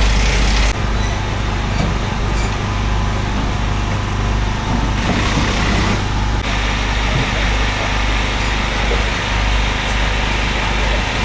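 Rally car engine and road noise heard from the roadside, mixed with people's voices.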